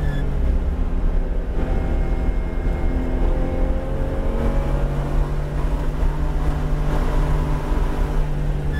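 Porsche 911 GT3 RS's naturally aspirated flat-six, heard inside the cabin, easing off as the car slows into a corner, then climbing in pitch from about two seconds in as it accelerates back out, over steady low road and tyre rumble.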